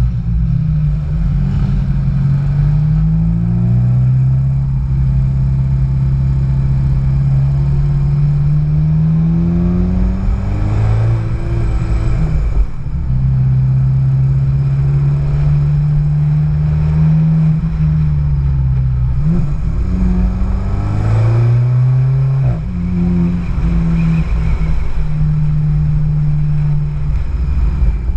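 Car engine pulling at low speed, mostly held at steady revs. Twice, about ten and twenty seconds in, its pitch climbs as it accelerates and then drops back at a gear change.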